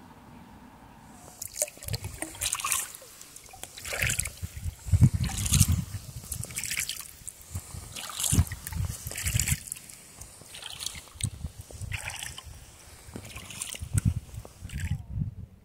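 Kayak paddle strokes in water: a splash roughly once a second, each with a dull low thud, starting about a second in and stopping just before the end.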